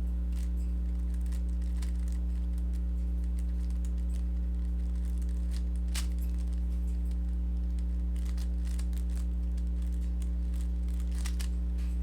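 A steady low electrical hum throughout, with faint, irregular clicking of a Rubik's cube being turned by hand.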